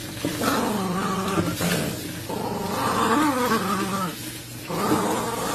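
A dog vocalizing in long, grumbling growls that bend up and down in pitch, three drawn-out calls in a row.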